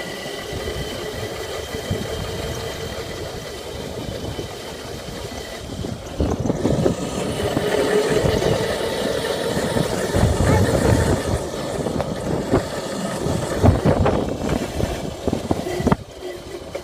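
Dirt bike engine running, growing louder from about six seconds in.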